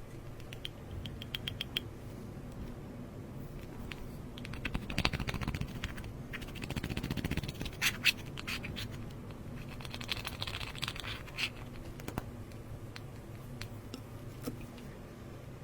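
Slime being worked by hand with cosmetics mixed into it, giving scratchy clicks and crackles. The crackling comes in denser spells about a third of the way in, around the middle, and again a little later.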